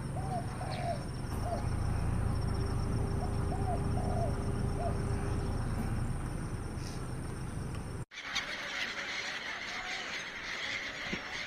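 Birds calling in short, arched notes, in two quick clusters over a steady low rumble. The sound cuts abruptly about eight seconds in to a steady hiss with a few faint calls.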